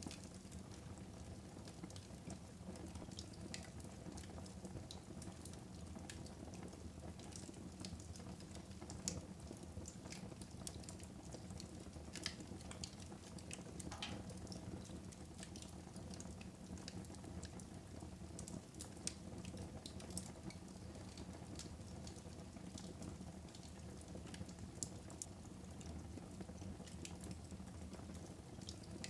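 Wood fire burning in a fireplace, crackling steadily with a few sharper pops over a low steady rumble.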